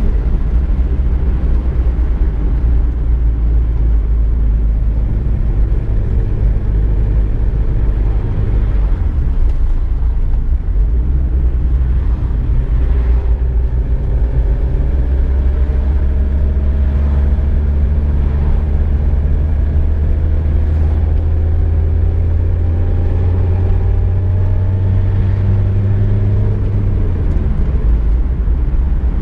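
Car driving, a steady low engine and road rumble. The engine note climbs slowly through the middle and drops about two seconds before the end.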